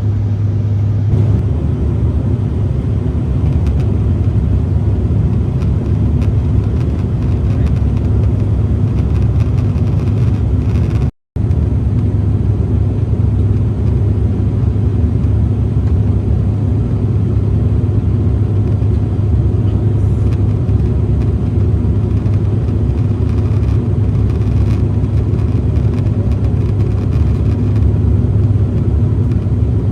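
Airliner cabin noise on the descent to landing: a steady, loud rumble of engines and airflow with a strong low hum. The sound cuts out for an instant about eleven seconds in.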